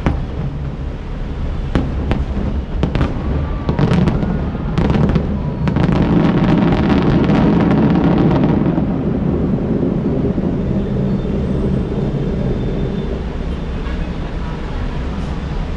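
Fireworks display with a run of sharp bangs and crackles that thickens into a dense flurry about five to eight seconds in, then thins out. A steady low rumble sits underneath throughout.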